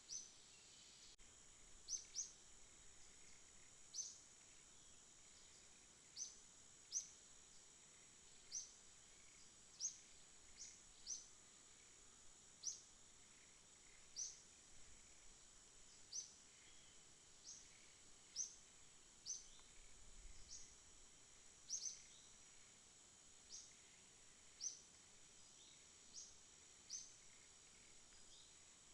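Night ambience: a steady, high insect trill runs throughout, with short, sharp, high chirps repeating irregularly about every one to two seconds.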